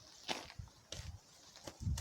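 A few short scuffs and knocks, like someone handling an axe and shifting their footing by a log, ending in one dull, low thump near the end.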